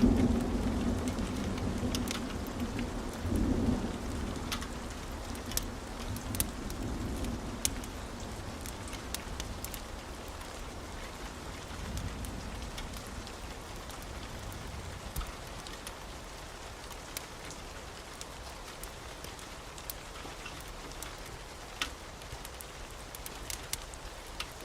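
Wood fire burning in a fireplace: scattered sharp crackles and pops over a steady soft hiss. A low rumble in the first several seconds fades away.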